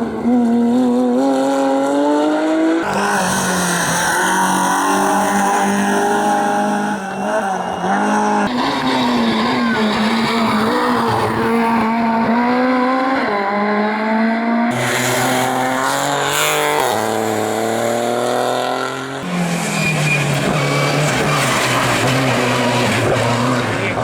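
Competition cars' engines at full throttle on a hillclimb, revving up through the gears with sharp drops at each shift, in several short takes of different cars joined one after another.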